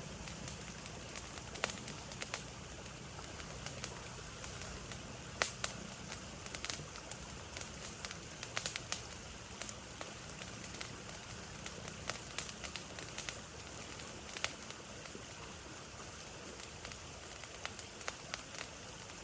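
Irregular sharp crackles and pops, scattered unevenly, over a steady low hiss.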